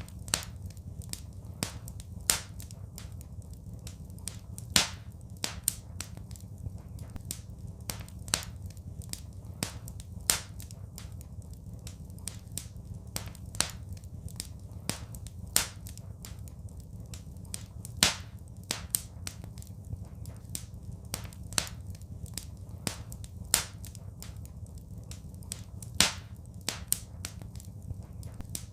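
Wood fire crackling in a fireplace: irregular sharp pops and snaps, a few louder ones every second or two, over a steady low rumble.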